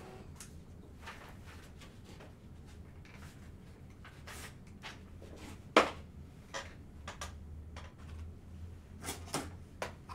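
Trading-card packaging being handled and opened: scattered small clicks and scrapes of cardboard and wrapper, with one sharp click about six seconds in the loudest, and a few more near the end. A low steady hum lies underneath.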